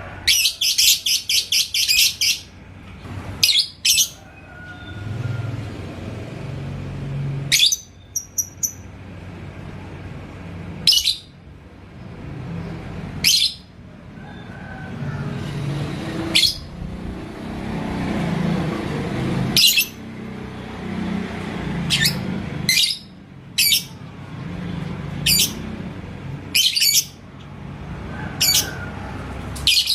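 Lovebird calling: a rapid chattering run of sharp, high chirps in the first two seconds, then single loud, piercing chirps every two to three seconds, over a low background rumble.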